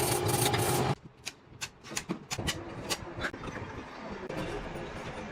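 Loud steady factory machine noise that cuts off suddenly about a second in, followed by scattered sharp clicks and knocks of workshop work.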